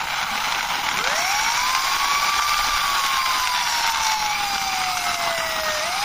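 Police-style siren wailing: a tone rises quickly about a second in, then falls slowly and starts to rise again at the end. A steady hiss runs underneath.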